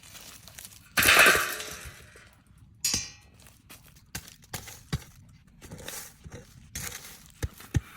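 Hard objects knocking and clinking: a loud clatter about a second in, a ringing clink about three seconds in, then scattered light knocks.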